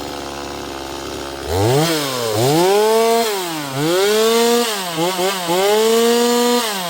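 Holzfforma G260 two-stroke chainsaw idling, then revved up and down about five times, with a few quick throttle blips near the end, before dropping back to idle.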